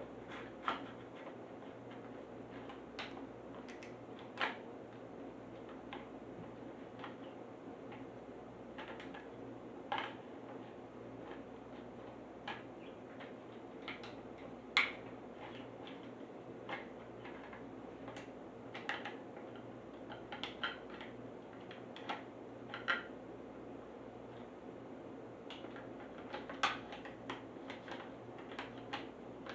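Irregular small clicks and taps of a plastic toy-car package being handled and worked open, over a steady low hum.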